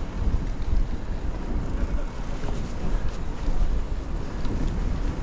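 Wind buffeting the microphone while riding, a steady low rumble that rises and falls.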